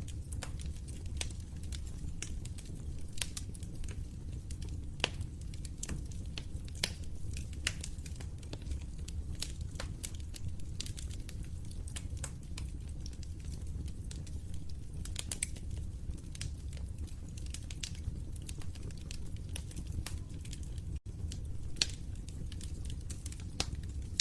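Wood fire crackling: frequent irregular sharp pops and snaps over a low, steady rumble of burning flames, with a split-second dropout about three-quarters of the way through.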